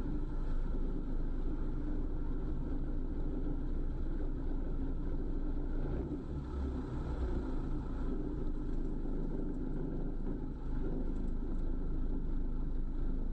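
Steady low engine rumble with a faint steady hum.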